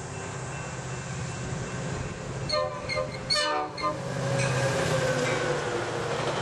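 Approaching train growing louder, its locomotive horn sounding a few short blasts about halfway through, followed by louder rolling train noise.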